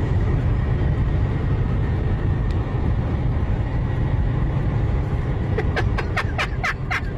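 A boat's engine runs with a steady low rumble, with wind on the microphone. Towards the end a rapid series of short, harsh bird calls comes in over it.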